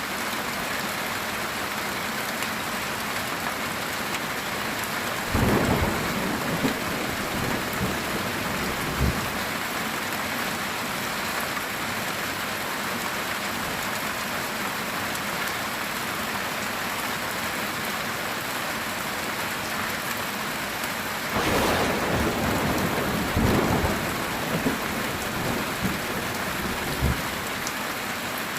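Heavy rain drumming steadily on a metal tin roof, with thunder twice: a rumble about five seconds in and a sharper crack that rolls on for a couple of seconds about two-thirds of the way through.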